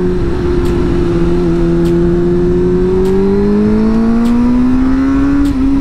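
Suzuki GSX-R600 K4's inline-four engine pulling under acceleration, its note rising slowly, with a brief hitch near the end, heard from the rider's seat over wind rush.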